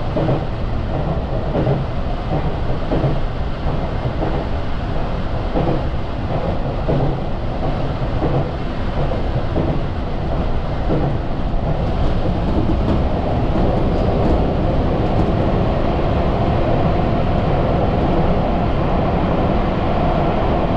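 Sotetsu Izumino Line electric train running, heard from aboard: a continuous rumble of the car on the track, with a steady hum growing stronger over the second half.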